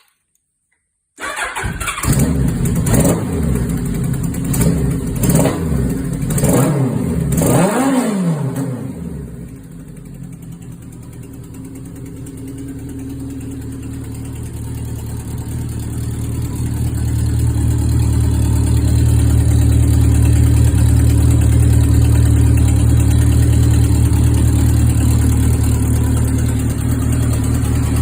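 Kawasaki KZ1000H's fuel-injected four-cylinder engine catching about a second in, revved in quick blips several times over the next several seconds, then settling to a steady idle that grows louder and holds even from a little past halfway on. The owner calls it running superbly.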